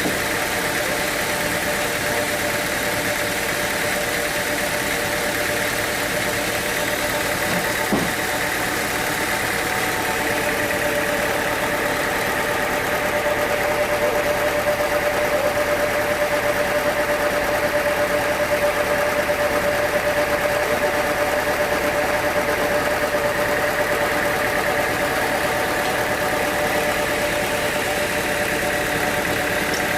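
Sawmill machinery running steadily: an engine-driven hum with a held whine that grows a little stronger and louder through the middle, and one sharp knock about eight seconds in.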